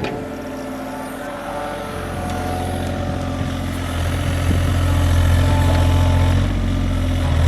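John Deere 35G mini excavator's diesel engine running steadily, with a strong low hum that grows louder about four and a half seconds in.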